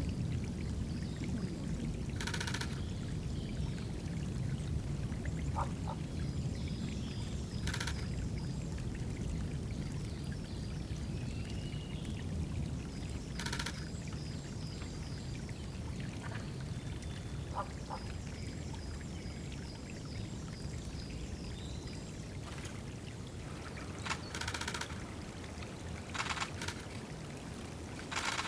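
Water pouring steadily into a woodland bird-bath pool, with a songbird singing runs of short, rapidly repeated high notes in the background. Several brief splashes break in.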